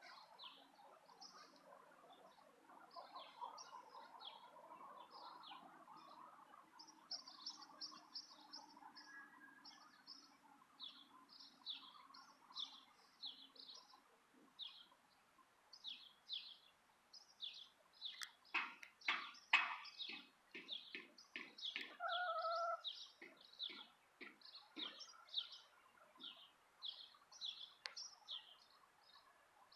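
Small birds chirping again and again, short high chirps in quick succession. About two-thirds through there is a quick run of sharp knocks and a short call.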